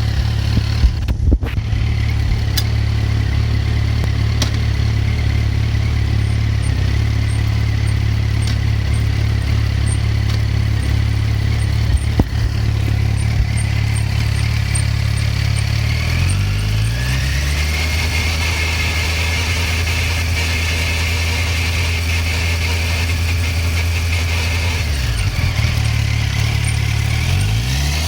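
Yamaha FZ1's inline-four engine idling, then held at slightly raised revs. At the raised revs a steady high hum comes in alongside the engine, which the owner takes to come from the chain or front sprocket; it fades when the revs drop back near the end.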